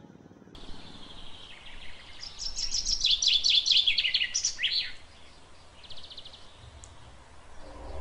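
A bird singing a quick run of falling high notes over a faint outdoor hiss, followed by a short faint trill.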